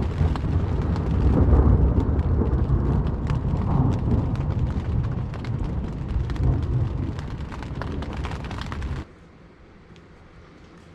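Rain pattering over a loud low rumble that cuts off suddenly near the end.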